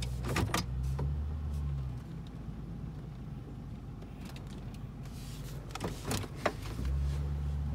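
2000 Mercury Grand Marquis's 4.6-litre V8 running cold at low speed, a steady low hum that eases off after about two seconds and picks up again near the end, with a few light clicks.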